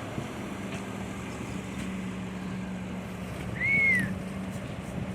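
A vehicle engine running steadily. About three and a half seconds in, one short high call rises and falls in pitch, louder than the engine.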